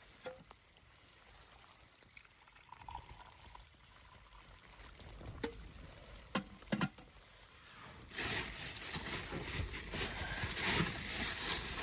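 A few light knocks, then liquid pouring, starting about eight seconds in.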